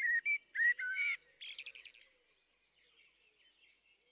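Bird song: about five short whistled notes with small pitch slides, then a quick, softer trill about a second and a half in.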